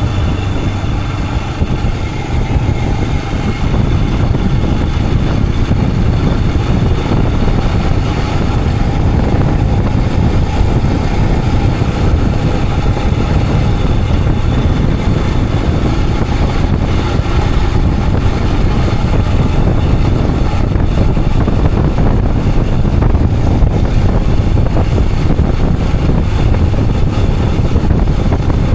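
Royal Enfield Himalayan 411's single-cylinder engine running steadily while the motorcycle rides along, with a constant low rumble of road and wind noise.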